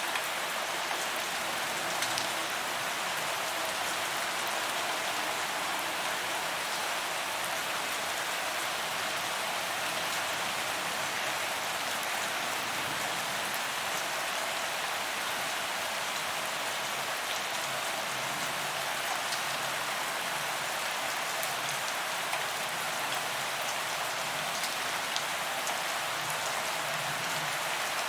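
Steady rain falling on a paved walkway, a constant hiss of drops with scattered sharper drop ticks.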